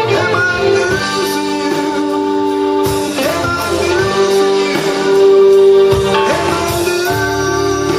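Live blues band playing a slow ballad, a guitar lead with bent notes over held chords.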